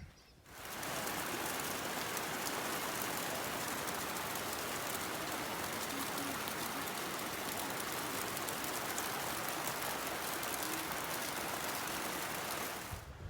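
Steady rain falling, an even hiss with a fine patter of drops. It comes up about half a second in and stops suddenly near the end.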